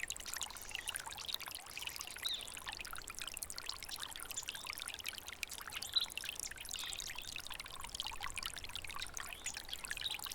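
A water stream running steadily.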